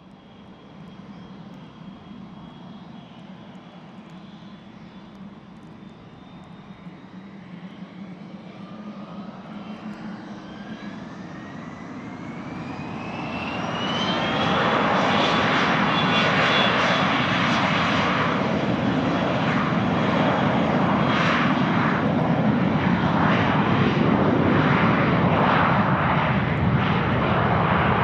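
A business jet's engines on a landing pass. A turbine whine rises in pitch as the jet nears, then about halfway through the sound jumps to a much louder, steady jet rush that lasts to the end.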